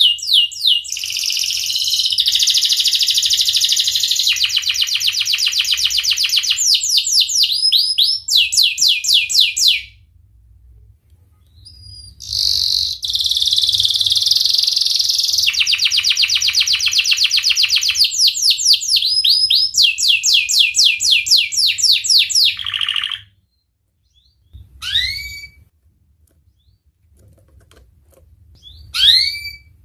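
Domestic canary singing: two long song phrases of rapid rolling trills, each about ten seconds long with a short pause between, then a few brief chirps that fall in pitch near the end.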